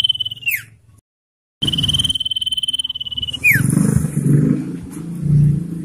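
Common iora giving its long trilled whistle: a high note held at one pitch that drops off in a quick downward slur, twice, with a brief total dropout between. In the second half a low rough rumbling noise sits under it.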